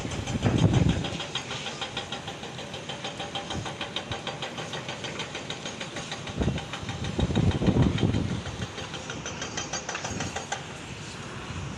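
Rooftop exhaust fan spinning in strong wind, giving an even rhythmic ticking of about five ticks a second that fades near the end. Wind buffets the microphone at the start and again about two-thirds of the way in.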